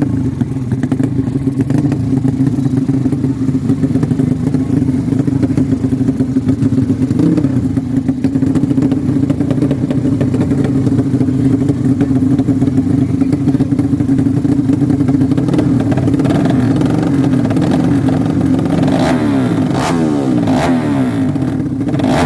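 A drag-race motorcycle engine running loud and held at a steady high rev. Near the end its pitch swings up and down and a few sharp cracks break through.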